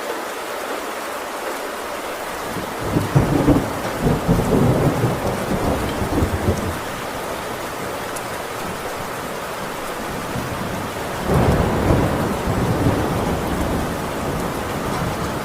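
Heavy rain falling steadily on a tin roof, with two long rolls of thunder rumbling through it, one a few seconds in and another about two-thirds of the way through.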